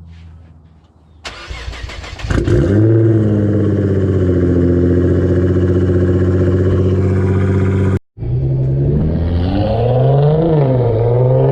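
A car engine starts about a second in, flares up and settles into a loud, steady idle. After an abrupt break, an engine idles with a few short revs, its pitch rising and falling.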